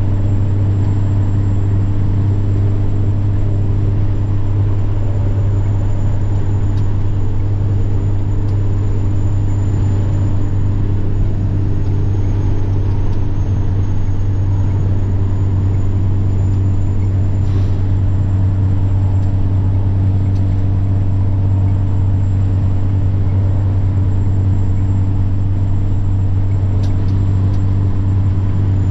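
Semi truck's diesel engine running steadily under way, a deep even drone, with the turbocharger's high thin whine above it that sags slightly in pitch about halfway through and then climbs back.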